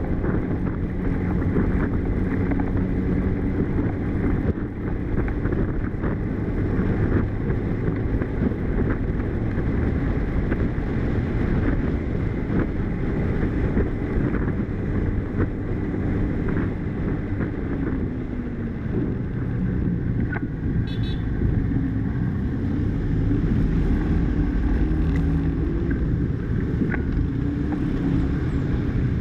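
Motor vehicle engine running steadily on the move. Its pitch falls and then rises again about two-thirds of the way through, as with slowing and speeding up.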